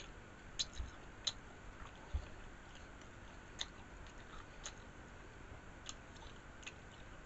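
Faint close-up chewing of a mouthful of taco: soft, scattered wet mouth clicks about once a second.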